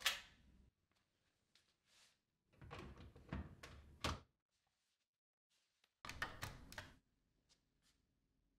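Plastic clicks and clunks from the parts of a Dyson cordless stick vacuum being handled. One knock comes at the start, then a run of several clicks a few seconds in, and another short group about six seconds in.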